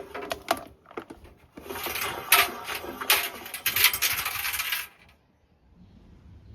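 Metallic clattering and jingling: a few sharp rattles in the first second, then a longer, dense run of rattling from about two seconds in that stops suddenly near five seconds.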